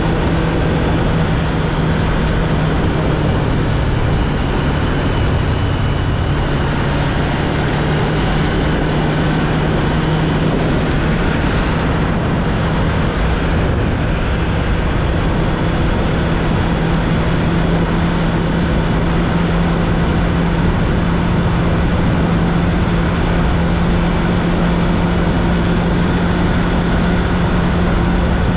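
2015 Honda CB500X's 471 cc parallel-twin engine running at a steady cruise, its even note held under a constant rush of noise.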